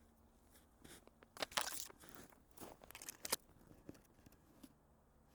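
Crunching footsteps in snow: a few loud crunches about one and a half to three and a half seconds in, between fainter ones.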